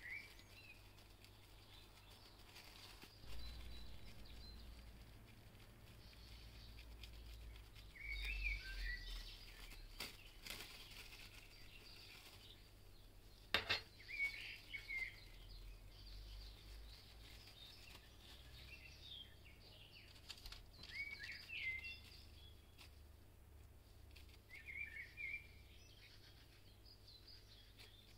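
Faint bird chirps in short phrases every few seconds over a low background hum, with one sharp click roughly halfway through.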